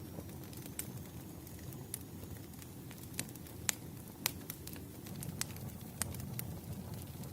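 Wood fire crackling: sharp, irregular pops and snaps over a low, steady rumble, with two louder pops near the middle.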